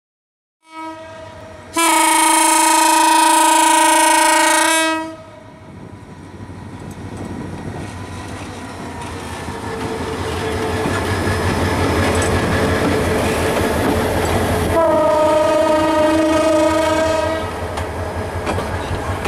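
Bangladesh Railway diesel locomotive horn sounding a long blast of about three seconds. The train then pulls away: the engine and the wheels on the rails grow steadily louder as the coaches roll past. A second horn blast of about two and a half seconds comes around fifteen seconds in.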